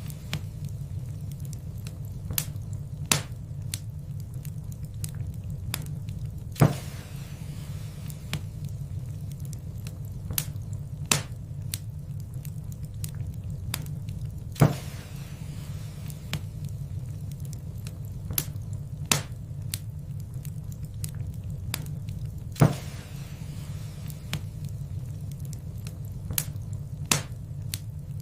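Wood fire crackling in a fireplace: sharp pops and snaps every second or so over a steady low rumble of the flames, with three louder pops spaced several seconds apart.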